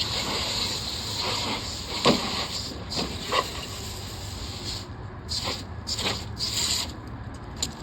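Hissing spray of water washing down a dirty lawnmower. It runs steadily, then comes in short on-and-off bursts about five seconds in, with a few sharp knocks along the way.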